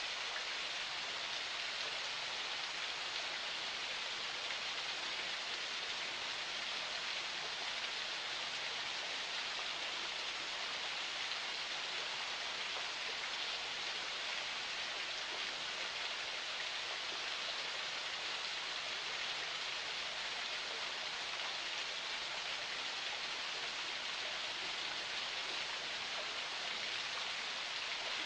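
Water of a forest spring flowing and splashing in a steady, hissing rush that never lets up.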